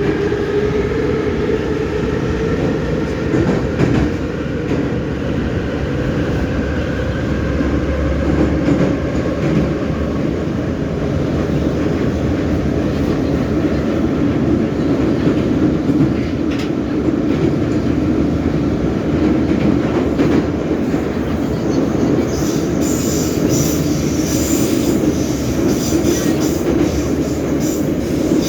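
Metro train of EMA-502/EM-501 cars running through the tunnel, heard from inside a car: a loud, steady rumble with a rising whine in the first few seconds. The wheels start squealing high-pitched about three-quarters of the way through, typical of taking a curve.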